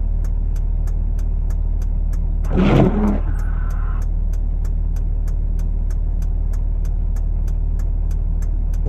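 Vehicle engine running steadily with a low hum, under an even, fast ticking of about four ticks a second. A short louder burst comes between two and three seconds in, followed by a brief steady tone.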